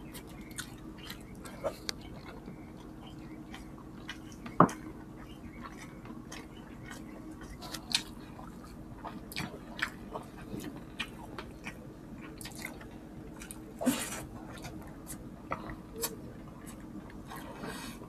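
Wet chewing and mouth smacking of people eating chicken and rice with their hands, made up of scattered short smacks and clicks over a low steady hum. A sharp click about four and a half seconds in is the loudest, and a longer noisy smack comes near the end.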